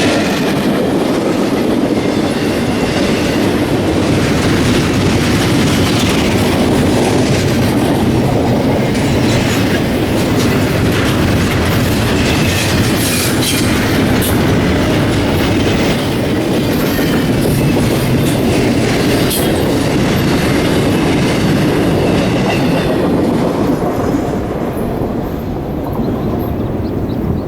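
Railcars of a passing train rolling by at track side, wheels clattering over the rail joints in a steady clickety-clack. The sound thins out a little in the last few seconds.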